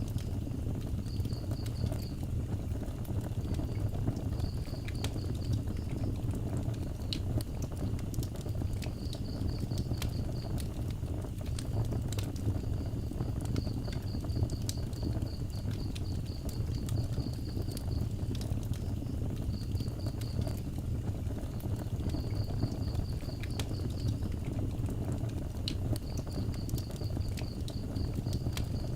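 Wood fire burning with a steady low rumble and scattered crackles and pops. An insect chirps in short, rapid high-pitched trains every few seconds.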